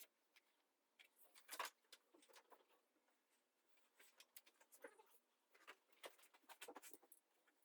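Near silence broken by faint, scattered short clicks and ticks.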